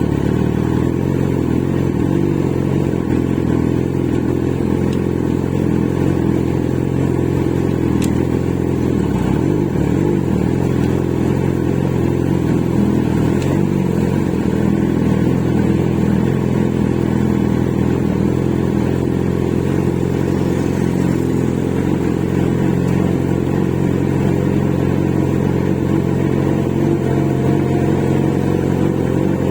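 Motorcycle riding at a steady cruise, the engine running at even revs under a low rush of wind on the microphone. A faint rising whine comes in near the end as the engine picks up.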